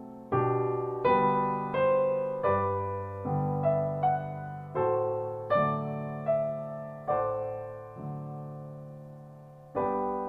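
Background piano music: slow chords struck about once every three-quarters of a second, each left to fade, ending on a longer held chord near the end.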